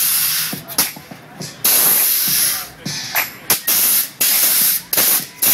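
Repeated loud bursts of hissing, like compressed air or gas released under pressure, each lasting under a second, with short gaps and sharp clicks between them.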